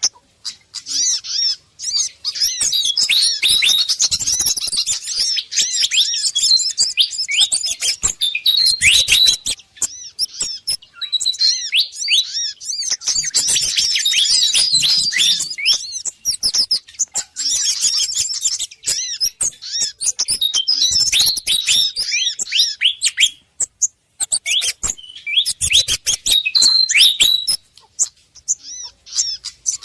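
Bird-lure recording of small songbirds calling agitatedly: rapid, overlapping chirps and quick up-and-down twittering notes in bursts, with short breaks between them. The mix is agitated Malaysian pied fantail (sikatan kipas) calls combined with sogon and kemade calls.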